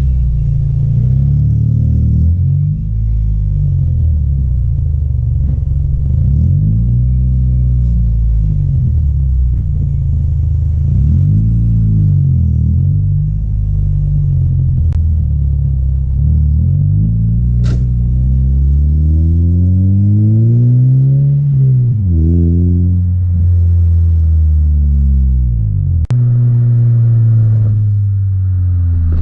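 2006 Scion xB's 1.5-litre four-cylinder engine revved repeatedly through its exhaust, the pitch climbing and falling with each blip of the throttle. About two-thirds through comes one longer rev that climbs higher before dropping quickly back to idle.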